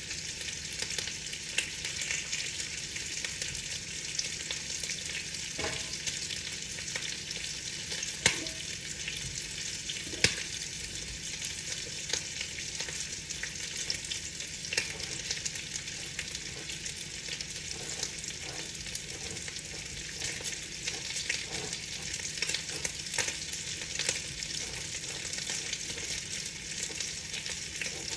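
Rain falling on a window: a steady hiss with scattered sharper taps of drops, a few louder ones about 6, 8 and 10 seconds in.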